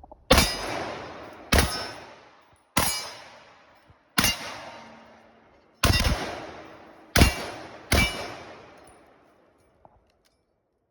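Seven rifle shots from an M1 Garand in .30-06, fired one at a time in quick semi-automatic succession about one to one and a half seconds apart, each with a long echoing tail. The rifle fires again after its firing pin was replaced.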